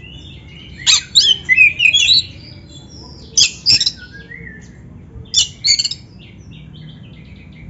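Oriental magpie-robin (kacer) singing: three loud bursts of quick, varied whistled notes with softer notes between them.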